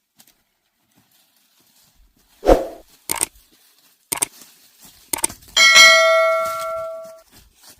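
A few separate knocks about a second apart, then a metal object struck and left ringing for about a second and a half as it fades.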